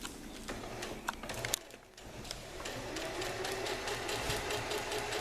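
Domestic sewing machine stitching a zigzag, running at a steady speed as a rapid, even chatter of needle strokes from about two and a half seconds in, after a few handling clicks and a brief pause.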